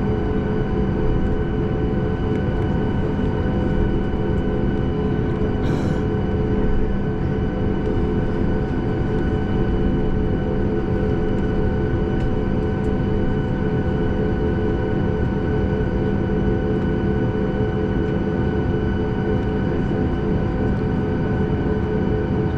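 Cabin noise of a Boeing 737 MAX 8 on the ground, its CFM LEAP-1B engines running at low power: a steady rumble with several steady whining tones. There is a brief click about six seconds in.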